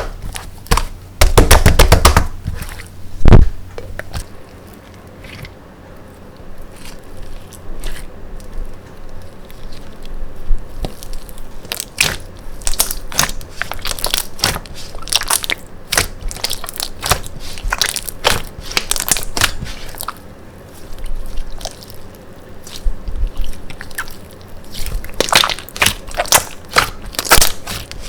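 Slime being squeezed and pressed by hand, giving runs of sharp clicking, popping crackles, loudest in a dense burst about a second in and again near the end.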